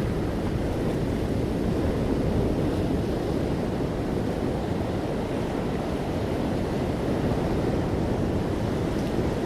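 Ocean waves rushing steadily on a shore, an even low surf with no distinct single wave crash.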